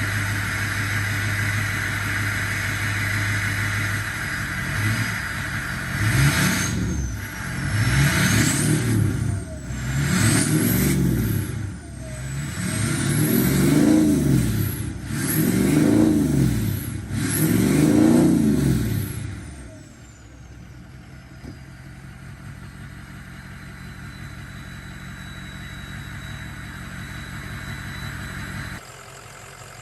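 Diesel pickup truck engine idling, then revved about six times in a row, each rev rising and falling with a high turbo whistle. It then drops back to a quieter idle while the whistle winds down.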